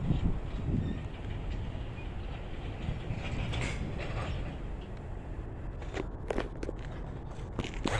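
Freight train moving past, a steady low rumble of rolling cars with a few sharp clanks and creaks about six seconds in and again near the end.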